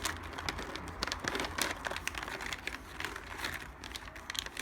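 Pet-treat package crinkling and rustling in the hands as treats are taken out, in a run of irregular crackles.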